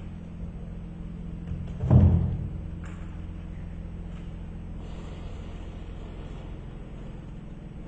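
A single loud, dull thud about two seconds in, over a steady low hum.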